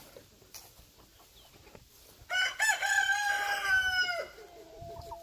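A game rooster crowing, loud and about two seconds long: a couple of short opening notes, then a long held note that drops at the end. A fainter drawn-out call follows right after.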